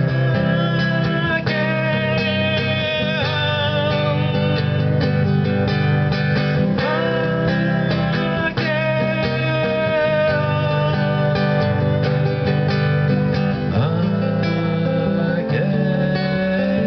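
Acoustic guitar playing an instrumental break between verses of a bard song, steady strummed and plucked accompaniment.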